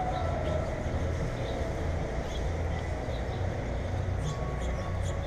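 Steady low rumble with faint, short bird chirps scattered through it, coming more often near the end.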